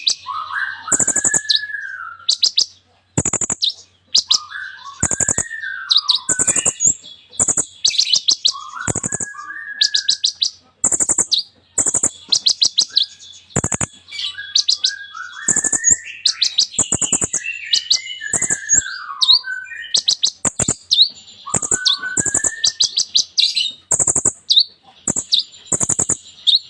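A kolibri ninja, a small sunbird, singing a long, varied song full of copied phrases: runs of rapid sharp clicking notes, high thin chips and falling whistled phrases, with hardly a pause.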